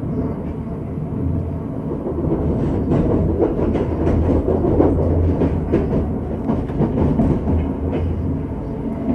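Electric suburban train running between stations, heard from inside the carriage: a steady low rumble of wheels on rail, with a run of clicks over rail joints in the middle.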